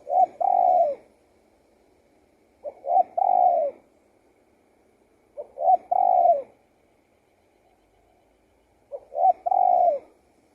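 Spotted dove cooing: four repeated phrases about three seconds apart, each two short notes followed by a longer coo that falls in pitch at its end.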